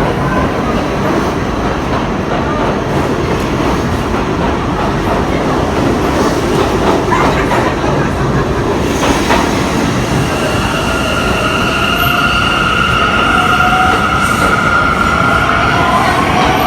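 R42 subway train running, its wheels and car body rumbling and rattling on the track, heard from inside. About ten seconds in, a steady high-pitched wheel squeal joins and holds to the end.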